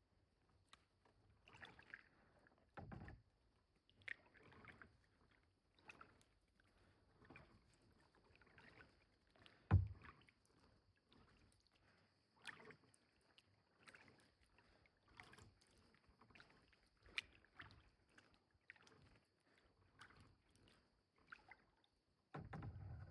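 Kayak paddle strokes: the blade dips and splashes in calm water about once every second and a half, with one louder knock about ten seconds in.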